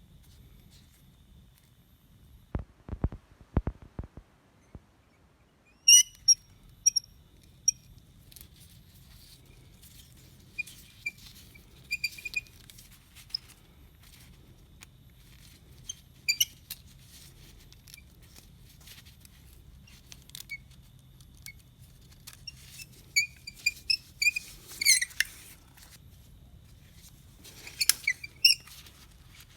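Metal hand tools and engine parts clinking and tapping as an engine is taken apart: a few dull knocks about three seconds in, then sharp, ringing clinks at irregular intervals.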